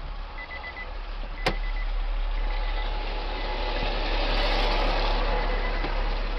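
Steady road and engine noise of a car as a dashcam picks it up, with a repeated electronic beeping in quick groups of about four, and a sharp click about a second and a half in.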